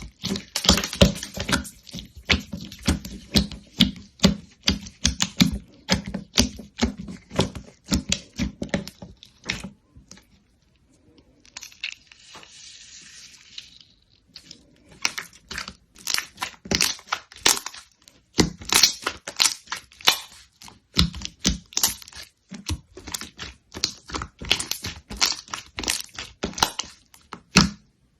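Slime being squeezed and pressed by hand, giving a quick, irregular run of sharp crackling clicks and pops. Partway through the pops stop for a few seconds, leaving a softer crinkly hiss, then start again.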